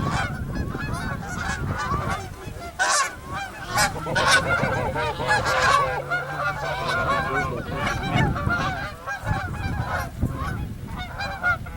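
A flock of geese honking without pause, many calls overlapping. A few brief rushing noises come about three to four and a half seconds in.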